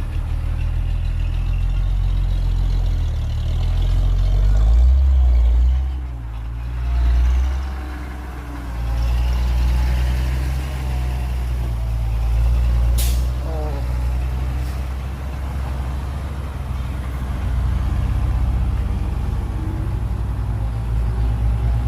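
Heavy diesel earthmoving machinery running with a deep low rumble, its engine swelling up about four to seven seconds in. A short sharp hiss about thirteen seconds in.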